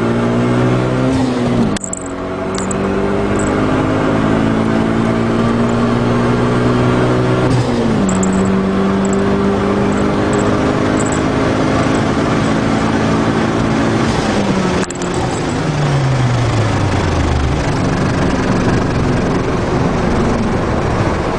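Turbocharged Mitsubishi GSR engine heard from inside the cabin, accelerating hard through the gears. Its pitch climbs in each gear, with gear changes about 2 s and 8 s in. About 15 s in it eases off and the pitch falls.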